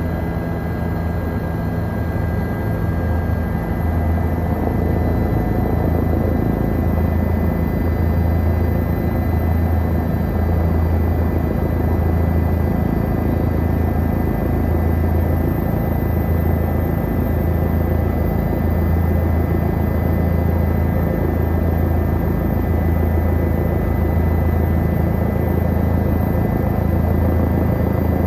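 Helicopter running steadily: a dense, loud drone with a strong low throb that swells and fades every couple of seconds, and faint steady high tones over it.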